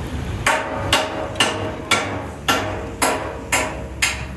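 Hammer blows on metal: eight sharp strikes, about two a second, each ringing briefly.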